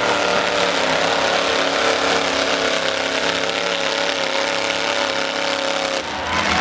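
Demolition derby trucks' engines running at a loud, steady pitch, with a brief dip near the end.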